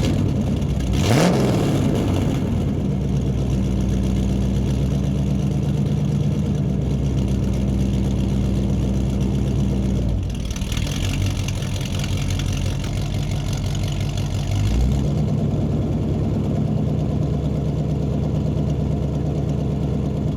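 A truck engine revs up about a second in, then runs steadily. Its note shifts around the middle and again about three-quarters of the way through.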